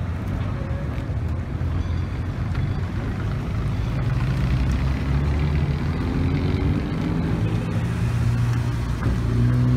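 Low engine rumble of cars pulling out slowly, first a lowered classic sedan moving off, then a Nissan Titan pickup's V8 rolling past with a steady low hum that rises slightly near the end.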